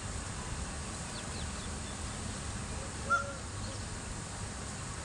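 A bird gives one short, loud call about three seconds in, with a few faint high chirps earlier, over a steady low background rumble.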